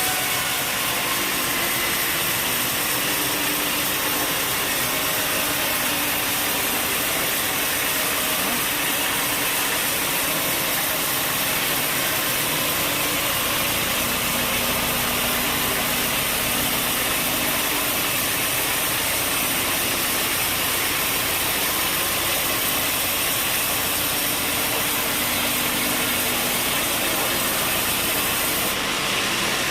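Sawmill machinery running: a loud, steady mechanical din with a constant engine-like hum.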